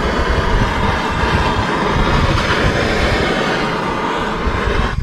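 Heat tool running with a steady, loud rushing noise and a fluttering low rumble, applied to soften stubborn old sealant and adhesive.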